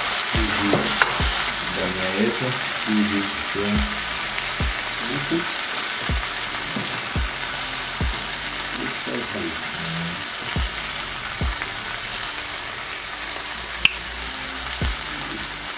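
Pork and grated carrots sizzling steadily as they fry in a pot on a gas stove, with one sharp click near the end.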